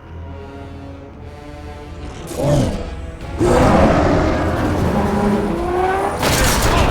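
Action film soundtrack: a dramatic orchestral score under loud battle sound effects. A sudden hit comes about two and a half seconds in, a loud mass of noise starts a second later, and another heavy burst comes near the end.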